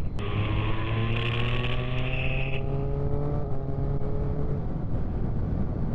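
Motorcycle engine accelerating, its pitch rising steadily for about four seconds before fading, over steady wind rumble on a helmet-mounted microphone.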